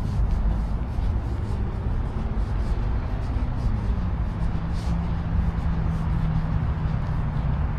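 Steady rumble of passing road traffic, with a vehicle engine's steady hum coming in about four seconds in.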